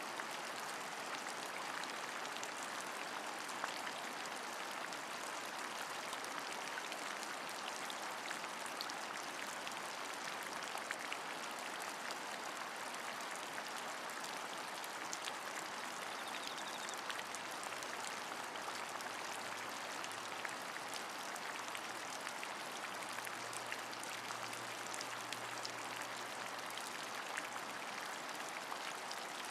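Steady rain falling, a dense even hiss with many small drops ticking through it. A faint low hum comes in about halfway through.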